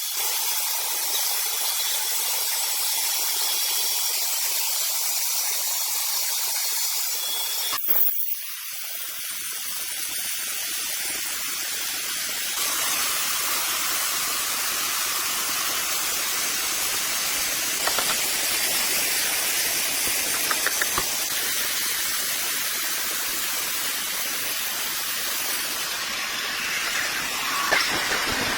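Sawmill saw cutting through a rosewood log: a steady high hiss of the blade in the wood, with an abrupt change about eight seconds in and some light rattles later on.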